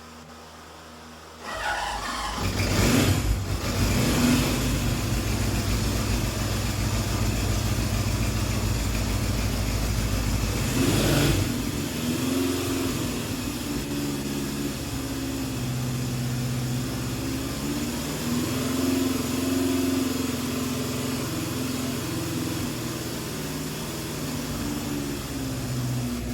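1972 Honda CB750's inline-four engine cranking and catching after a couple of seconds on its first start after a rebuild. It then runs, with a blip of revs about eleven seconds in, and settles into an idle whose revs wander up and down.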